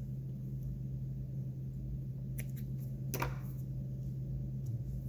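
Steady low electrical hum, with a few faint clicks and a short rustle a little past halfway from hands handling fly-tying materials at the vise.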